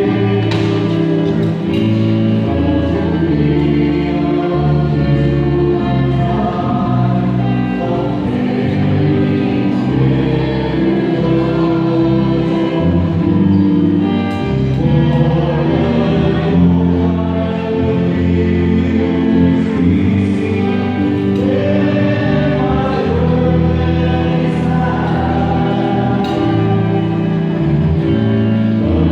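Choir singing a hymn with instrumental accompaniment, the sustained notes changing steadily.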